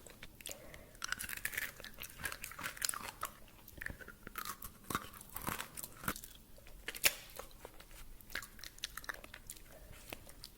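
Close-up chewing and crunching of chocolate candy, a rapid irregular run of small crackles and clicks with one sharper snap about seven seconds in.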